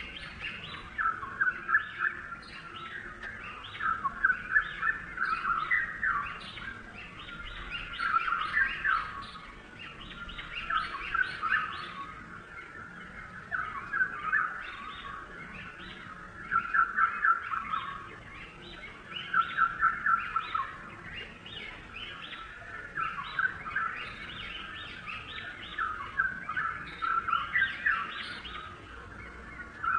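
Small birds chirping in quick runs of short, high notes that recur every second or two.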